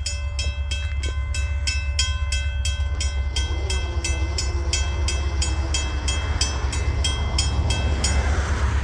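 Grade-crossing bell ringing rapidly, about four strikes a second, over the deep, steady rumble of an approaching diesel freight train. The bell stops shortly before the end.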